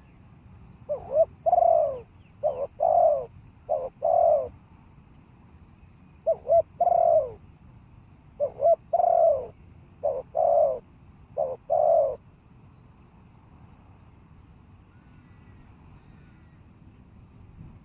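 Spotted dove cooing in two bouts of repeated croo-coo phrases, the first starting about a second in and the second ending about twelve seconds in, over a steady low rumble.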